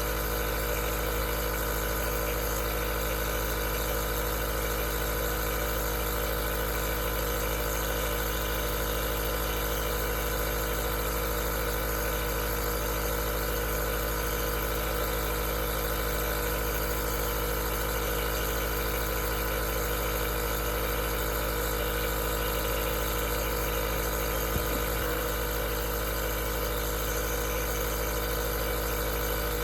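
Aerosol nebulizer's compressor running steadily: a constant motor hum and buzz over a hiss of air, with one small click about three quarters of the way through.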